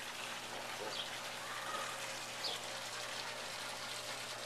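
Steady outdoor hiss with two short, high bird chirps about a second and a half apart and a brief whistled note between them.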